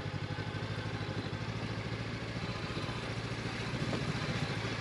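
Honda CB500X's parallel-twin engine running at low, steady revs, an even low putter, as the motorcycle creeps slowly down a steep off-road trail.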